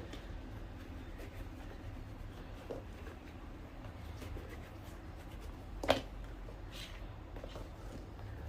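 Quiet handling sounds of shoe-repair work: soft scattered taps and rubs over a low steady hum, with one sharp knock about six seconds in.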